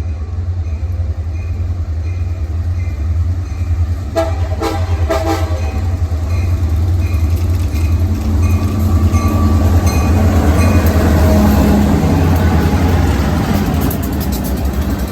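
A railroad train going by: a steady low rumble that grows louder past the middle, with the locomotive's horn sounding in short pitched blasts about four to five seconds in.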